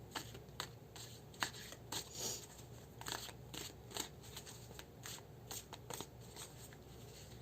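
Tarot cards being handled and shuffled: faint, irregular flicks and snaps of card stock, with a longer sliding rustle about two seconds in.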